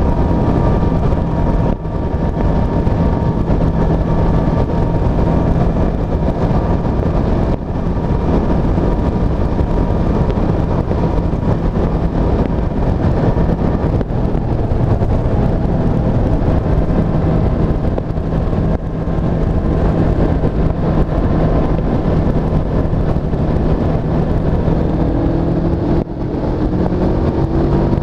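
Honda CB500F's parallel-twin engine running steadily while riding, with a few brief dips in level. Over the last few seconds its pitch starts to rise as the bike picks up speed.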